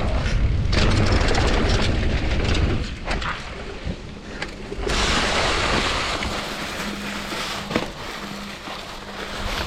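Downhill mountain bike riding: wind buffeting the action camera's microphone, tyres rolling over dirt and gravel, and sharp rattles and knocks from the bike over rough ground. The wind rumble is heaviest in the first few seconds, and the tyre hiss grows from about halfway through.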